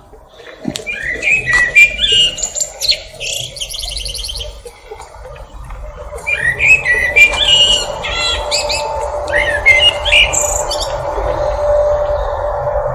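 Sabiá-preto thrush singing: two runs of quick, varied whistled phrases separated by a short pause. A steady low hum rises in the background from about halfway.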